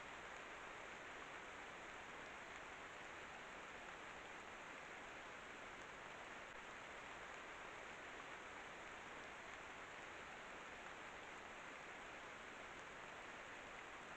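Steady rain falling: an even hiss with no pauses, starting and stopping abruptly with the clip.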